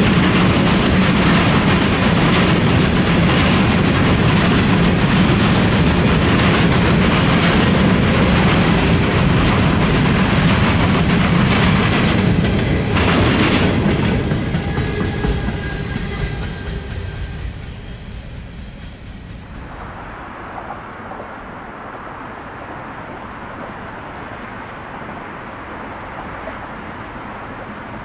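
Freight train of covered hopper cars rolling past close by, a loud steady rumble with wheels clacking over the rail joints. The last car goes by about 14 seconds in, and the sound fades over the next few seconds, with a faint squeal from the wheels as it recedes, to a much quieter steady background.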